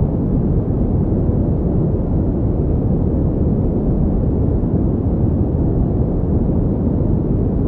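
Continuous synthetic pink noise, steady and unchanging, a deep, dark hiss with most of its energy low down and little above about 1 kHz.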